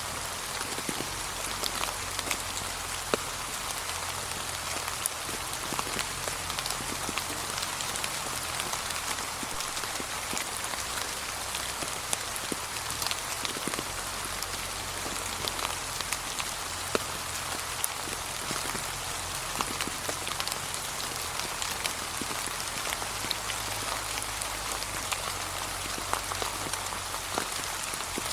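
Steady, gentle rain falling on fallen autumn leaves: a soft continuous hiss dotted with the small sharp taps of single drops.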